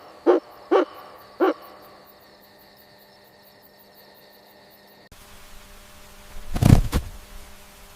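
An owl hooting: three short pitched hoots in the first second and a half. Near the end, after an abrupt change of background, comes one loud noisy burst about half a second long.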